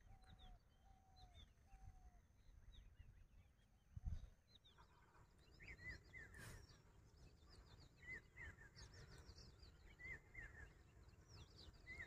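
Faint calls of several small wild birds: a run of short, evenly spaced notes in the first two seconds, then many quick high chirps and twittering phrases through the rest. A single low thump about four seconds in.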